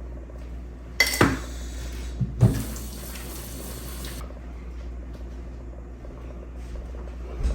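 Kitchen sink tap running briefly, water splashing for about two seconds, with a couple of knocks from dishes and utensils.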